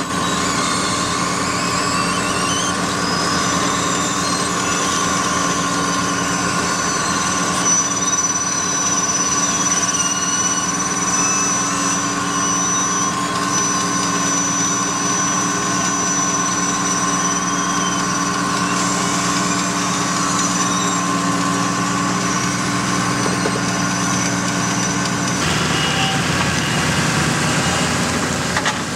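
Heavy road-paving machinery running steadily on its diesel engine, with a thin high whine through the middle part; the machine sound shifts abruptly near the end.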